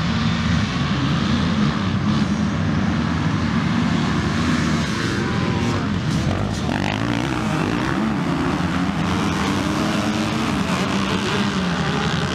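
Several dirt bike engines running and revving up and down, their pitches rising and falling and overlapping in a continuous loud drone.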